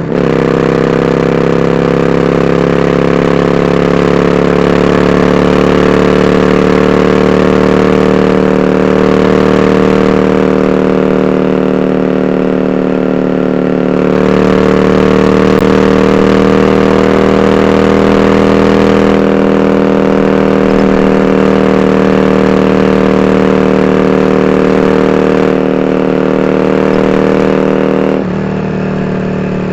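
Yamaha Drag Star 400's V-twin engine running steadily through open-end dual Supertrap mufflers with eight discs, the exhaust note holding an even pitch with only slight drift and dropping a little in level near the end.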